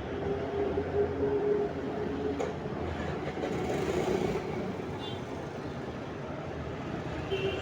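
Street traffic: passing motor vehicles running, with a short horn toot about five seconds in and another near the end.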